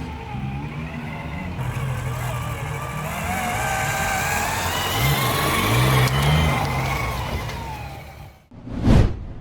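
Nitro engine of a 1/8-scale HPI WR8 RC rally car running and revving, its pitch rising and falling as the throttle works, then fading away near the end, followed by a brief whoosh.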